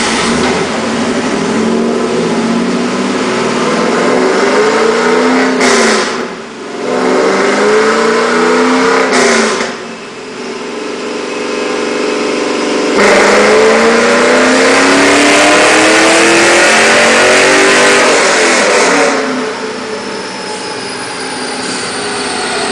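Fourth-generation Chevrolet Camaro engine and exhaust revving on a chassis dyno. The revs climb and drop twice, then a loudest, longest pull of about six seconds, then the throttle eases off near the end.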